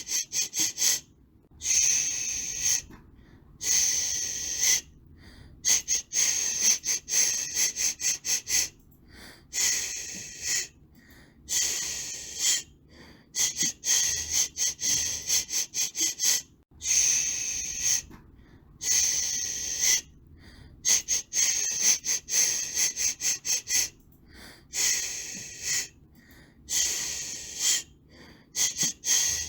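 High-pitched white-noise hiss for soothing a baby, coming in rhythmic bursts of about a second with brief gaps between them, and in places broken into quick repeated pulses, like a steady 'shh-shh' shushing.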